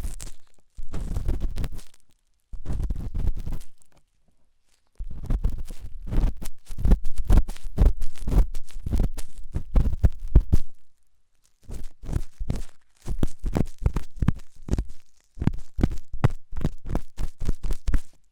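Intense ASMR ear cleaning: an ear-cleaning tool scraping and scratching hard in an ear right at the microphone. It comes in runs of rapid crackly strokes lasting one to six seconds, broken by short pauses.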